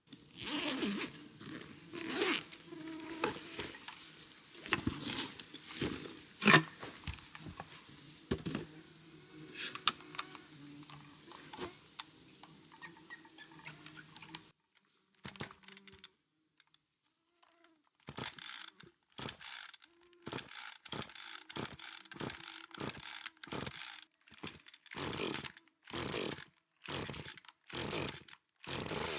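Hand-cranked well windlass turning, its mechanism clicking and creaking. After a short pause about halfway through, a run of evenly spaced clanks follows, about two a second.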